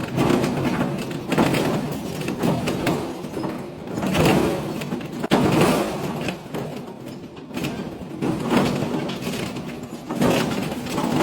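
Industrial metal shredder grinding scrap metal: a continuous rough crunching and grating that swells and eases every second or two, with a sharp crack about five seconds in.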